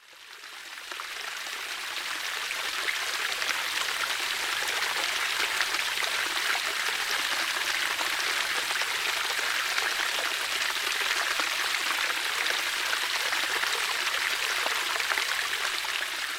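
Water running and splashing steadily in a water feature, a continuous trickling hiss that fades in over the first couple of seconds.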